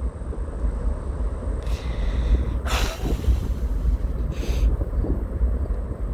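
Wind buffeting the microphone, a steady low rumble, with a few short breathy noises.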